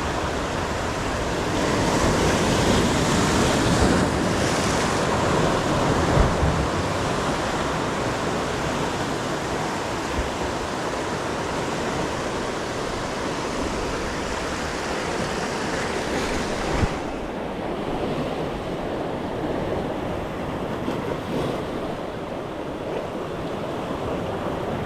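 Ocean surf washing in steadily, with wind on the microphone. A surge is loudest a few seconds in, and the hiss turns duller about two-thirds of the way through.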